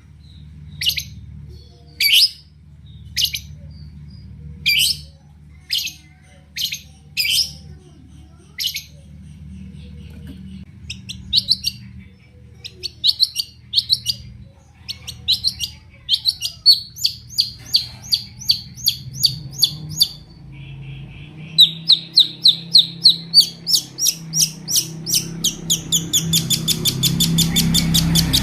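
Long-tailed shrike singing: sharp single calls about once a second, then quicker chattering phrases, breaking into a fast run of chirps that speeds up near the end. A low hum underneath grows louder toward the end.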